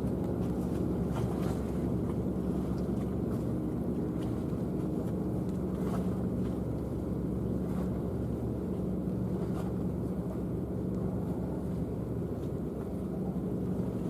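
Engines of a high-speed catamaran passenger ship running with a steady low drone, over a rush of water and wind.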